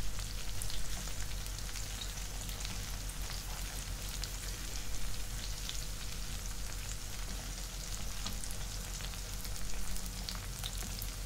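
Masala-stuffed okra sizzling and crackling as it pan-fries in hot oil, with a silicone spatula now and then scraping and turning the pieces in the pan.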